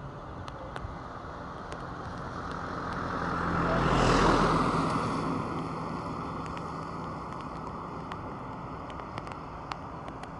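Jet engines of a Boeing 767-300 airliner passing on its landing on a wet runway, with a hiss of water spray; the sound swells to a peak about four seconds in, then slowly fades away.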